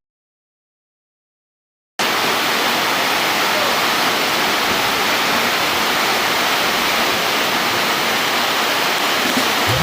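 Silence for about two seconds, then the steady rushing of a waterfall cuts in suddenly and carries on evenly.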